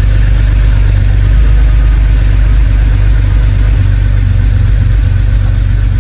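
BMW E90 330i's N52 3.0-litre straight-six engine idling steadily just after starting, a deep, even rumble.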